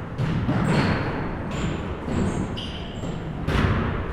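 Basketballs bouncing on a gym floor: several separate thuds, the loudest about three and a half seconds in, mixed with short high squeaks.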